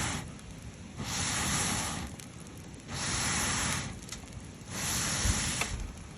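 Rhythmic hissing rushes of air, each about a second long and coming about every two seconds, with a few faint crackles from the wood fire between them.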